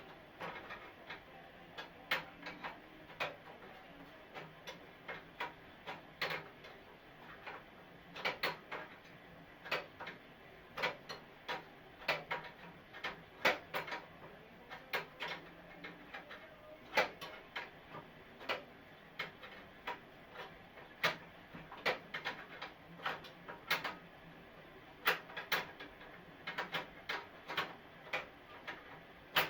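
Irregular light clicks and knocks, often one to three a second, some coming in quick clusters, with short pauses between.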